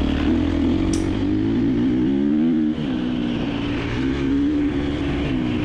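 KTM 350 XC-F dirt bike's single-cylinder four-stroke engine running under throttle, its pitch rising and falling repeatedly as the rider works the throttle, with a brief drop about halfway through.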